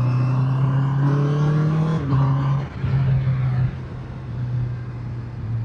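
Motorcycle engine accelerating, its pitch climbing for about two seconds, then dropping with breaks in the note around the two- and three-and-a-half-second marks as the rider shifts or rolls the throttle, and running quieter after that over steady wind and road noise.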